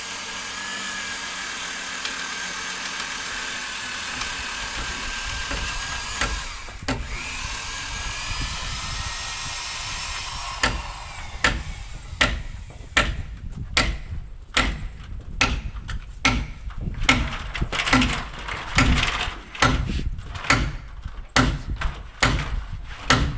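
Electric drill running steadily, briefly stopping and spinning back up about seven seconds in. From about eleven seconds, a run of sharp hammer blows on timber, a little over one a second, typical of pounding wooden pegs into a post-and-beam frame.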